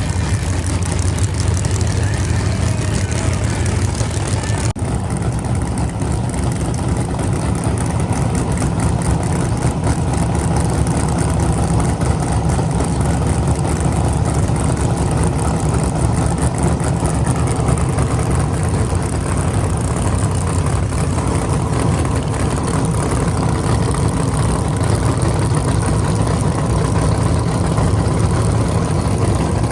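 Car engine running at a steady idle, a deep, even rumble with no revving.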